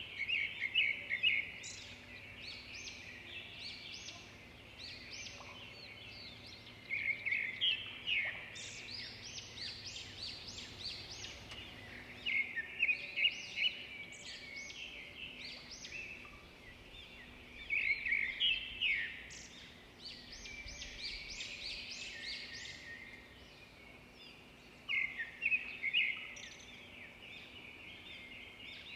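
Songbirds singing: a loud burst of quick chirping notes comes back about every five to six seconds, with softer chirps in between.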